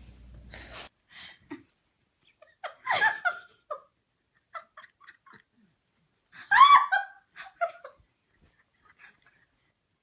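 A person laughing in a few short bursts, loudest about three seconds in and again near seven seconds.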